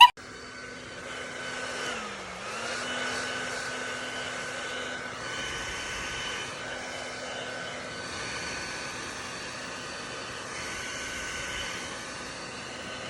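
A steady machine hum over an even rushing noise, its pitch dipping briefly about two seconds in and then settling back.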